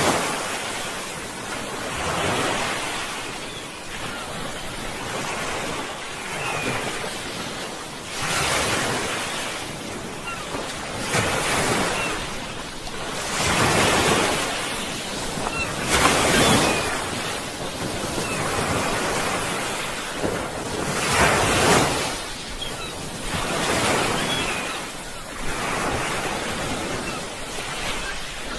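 Sea waves breaking and washing ashore, a rushing surge every two to three seconds with quieter wash between.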